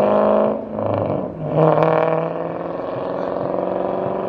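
A car engine running, dropping off about half a second in and rising again at about a second and a half.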